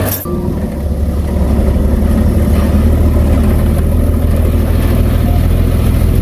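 Heavy diesel engine of earthmoving machinery running with a steady, low drone; a sharp click at the very start, then the sound dips briefly and settles back to an even run.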